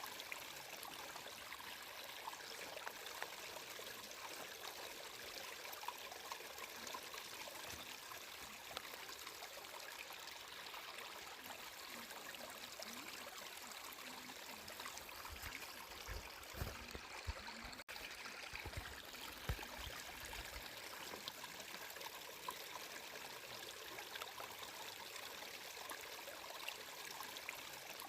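Water flowing and trickling steadily, like a small stream, with a few low bumps a little past the middle.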